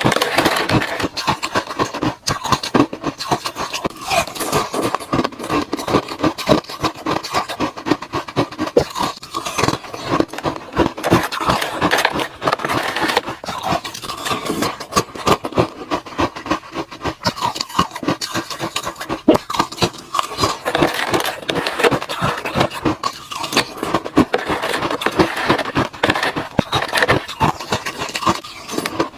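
Ice being chewed and crunched close to the microphone: a dense, continuous run of crisp cracking and crunching with no pause.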